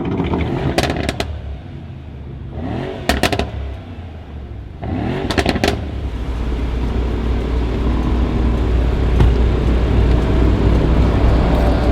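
BMW 440i Gran Coupe's turbocharged straight-six, with a catless downpipe and M Performance exhaust, is blipped twice. Each rev rises quickly and ends in pops and crackles, and after that the exhaust settles into a steady low rumble.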